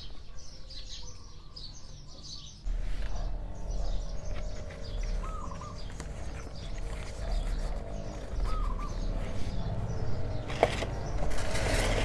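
Small birds chirping faintly outdoors, over a low steady hum that starts suddenly about a quarter of the way in. A single sharp click near the end is followed by rustling.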